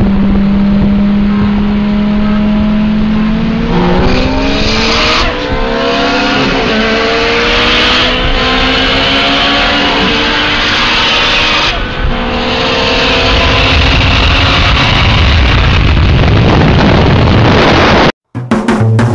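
A performance car engine held at steady revs, then accelerating hard, its pitch climbing and dropping back at each of several gear changes. The sound cuts off suddenly near the end.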